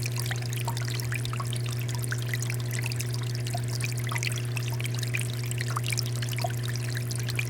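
Water fountain running: a continuous pouring and trickling of water with many small splashes, over a steady low hum.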